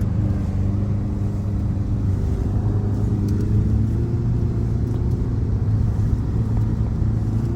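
Vehicle engine and road noise, a steady low drone.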